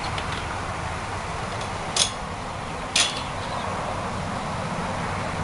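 Steady buzzing hum of a honeybee swarm, broken by two sharp clicks about a second apart in the middle.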